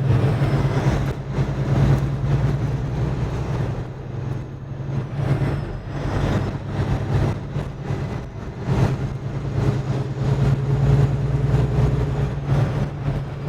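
Semi-truck's diesel engine running at a steady low drone while driving, with road noise over it.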